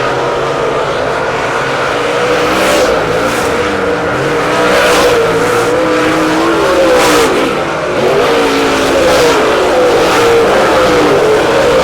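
Race car engines running on a dirt oval, their pitch rising and falling as they rev through the corners, with cars repeatedly passing by.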